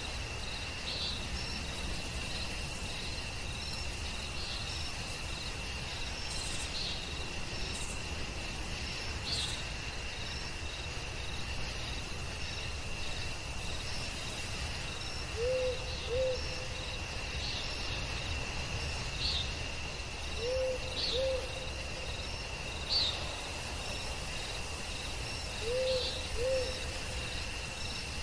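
Night forest ambience: crickets trill steadily, with short high chirps every second or so. In the second half an owl hoots in pairs of two short hoots, three times about five seconds apart.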